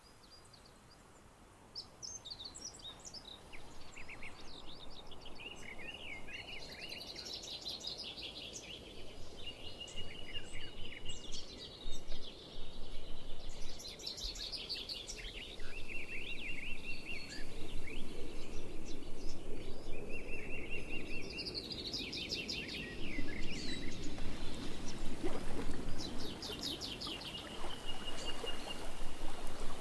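Several songbirds singing, with fast repeated chirps, trills and short whistled phrases starting about two seconds in, over a low steady background rumble of the surroundings.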